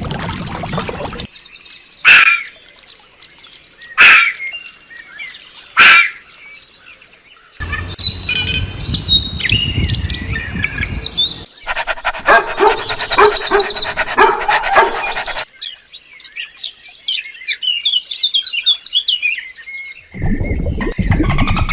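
Birds calling and chirping: three short, loud calls about two seconds apart, then a busy chorus of many chirps, then lighter high-pitched chirping near the end.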